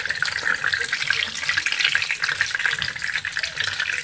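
Egg-battered vegetable rellenos frying in hot oil in a pan: a steady, dense crackling sizzle.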